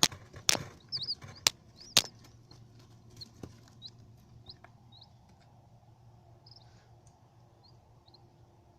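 Small bird giving scattered short, high chirps that flick upward, with several sharp clicks or knocks in the first two seconds.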